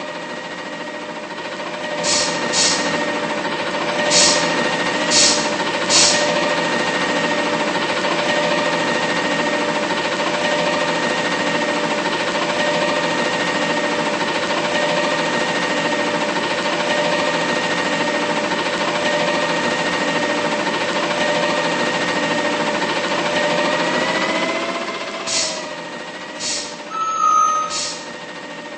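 Mack LR McNeilus front-loader garbage truck running with a steady mechanical whine from its engine and hydraulics, with a few sharp metallic bangs about two to six seconds in and again near the end. Shortly before the final bangs the whine bends up in pitch and drops back.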